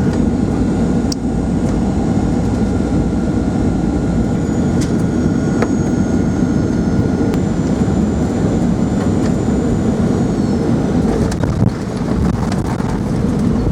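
Steady cabin noise of a Boeing 767-400ER airliner descending on approach: a low rumble of air and engines with a thin, steady high whine over it. A few faint clicks come near the end.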